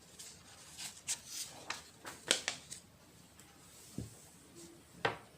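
Handwriting: quick scratchy pen strokes on a writing surface, several in a row over the first three seconds, then a soft knock about four seconds in.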